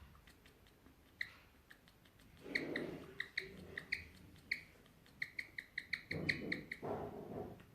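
Guinea pig chirping: a long run of short, high, bird-like chirps that come faster near the end. Chirping is considered a rare guinea pig call tied to inner tension, with no clearly established cause.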